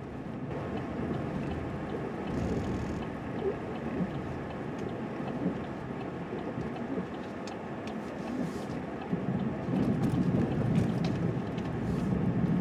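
Plow truck running as it drives through unplowed snow, a steady rumble that gets louder about nine seconds in.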